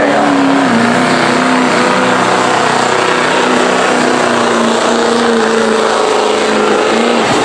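Modified street diesel pickup's engine running hard at high RPM under the load of the pulling sled, holding a steady pitch with the drivetrain struggling for traction. The engine note drops off shortly before the end.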